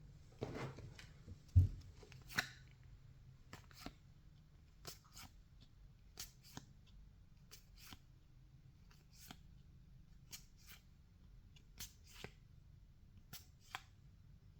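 Baseball trading cards being flipped through one by one by hand: a string of faint, light card snaps and slides, roughly one a second, with a soft low thump a little over a second in.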